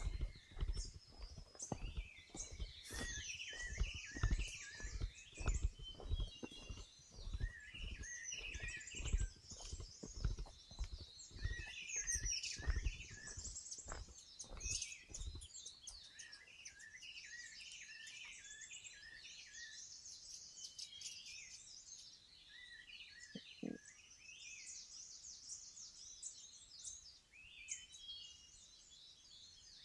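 Footsteps on a forest trail, about two steps a second, that stop about halfway through, while many birds chirp and call throughout.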